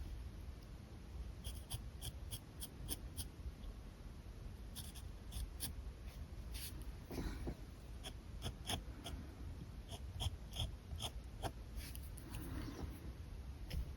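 Alcohol markers drawing on paper: many short, quick strokes and tip taps. Two brief breathy sounds come about seven and twelve seconds in.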